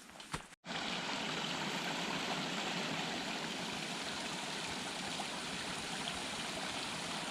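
A few footsteps on the trail, then a steady rush of flowing water from a mountain stream or small waterfall that begins abruptly just over half a second in.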